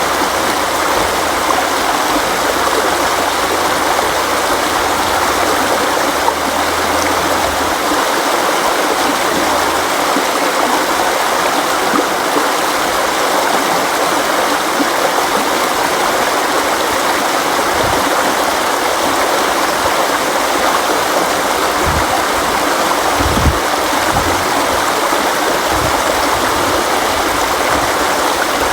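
Steady rushing of a flowing river or stream, with a few brief low thumps of water in the second half.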